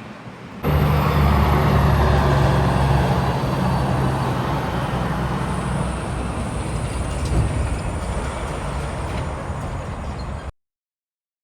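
Heavy truck's diesel engine and tyres passing close by on the highway, loudest from about a second in and slowly fading as it moves away. The sound cuts off suddenly near the end.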